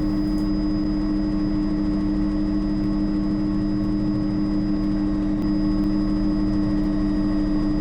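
Bell 206 JetRanger helicopter heard from inside the cabin, with a steady drone from its rotor and turboshaft engine and a thin high whine above it. It holds an even note during the approach to landing.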